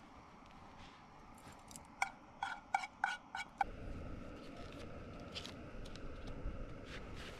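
Metal cookware or utensils clinking together in a quick run of about six ringing clinks over a second and a half, then a low, steady background noise.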